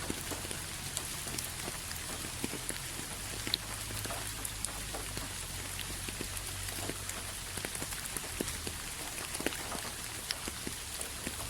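Steady rain falling, an even hiss with many individual drops ticking sharply here and there, over a low steady rumble.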